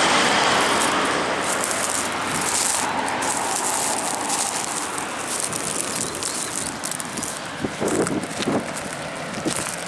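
Noise of a passing vehicle on the road fading away as it recedes, while crackling, rustling sounds close to the microphone carry on, with a few sharper clicks near the end.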